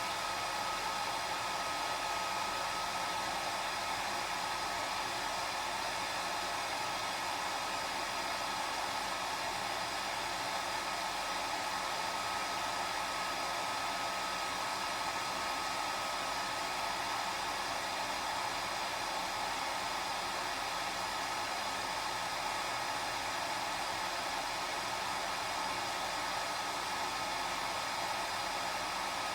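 Hair dryer running steadily: an even airy rush with a faint steady whine from the motor.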